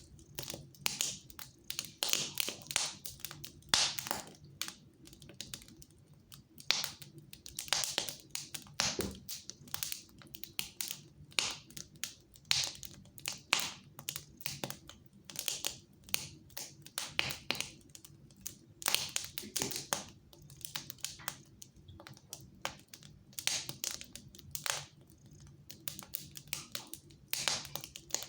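Wood fire crackling in a fireplace: irregular snaps and pops, some sharp and louder, over a faint steady low hum.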